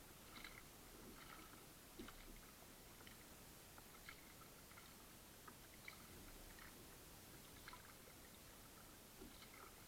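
Faint small water splashes and drips from a kayak being paddled, in irregular light ticks over a low hiss.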